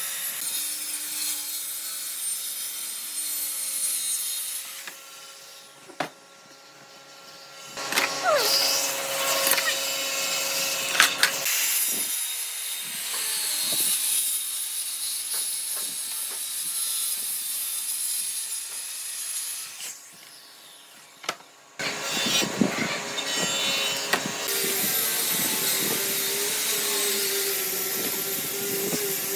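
A power tool working wood: a steady, noisy cutting or abrading sound. It drops away for a few seconds twice and then starts again.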